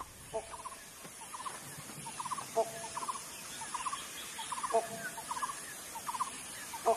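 Bird calls: short rattling, gobbling runs of a few quick notes, repeated roughly every three-quarters of a second, with a louder, lower clucking call about three times.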